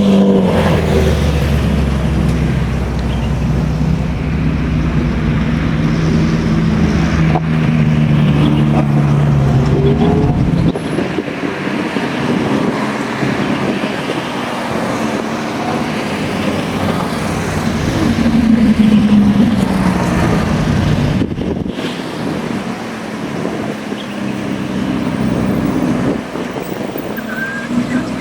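Car engines running: a steady low engine note for about the first ten seconds, then lighter traffic noise, with one engine note rising and falling about nineteen seconds in.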